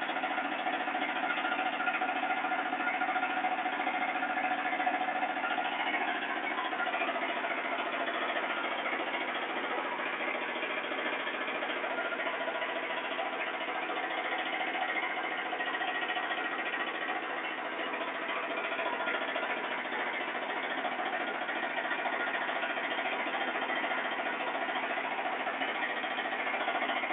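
Kubota 18 hp diesel engine running steadily, driving a 22,000-watt three-phase generator.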